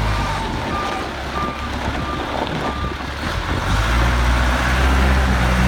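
John Deere 310D backhoe's diesel engine running while its reverse alarm beeps, about one beep every 0.6 seconds, stopping about three seconds in. The engine's low drone eases back in the middle and comes up strongly again about four seconds in.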